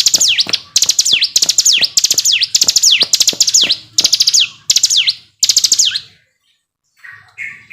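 Ciblek gunung, a prinia, singing its continuous 'ngebren' song: phrases of a fast, high trill, each ending in a falling sweep, repeated in quick succession. The song breaks off about six seconds in, followed by a few softer, lower chirps near the end.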